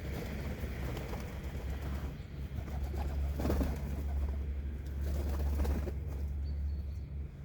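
Pigeons cooing, with swells about three and a half seconds in and again around five to six seconds, over a steady low rumble.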